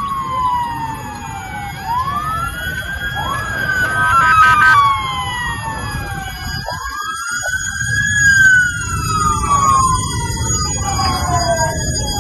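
Several emergency-vehicle sirens wailing at once, their pitches sweeping up and down in overlapping wails over a steady low rumble of noise, with a brief clatter about four seconds in.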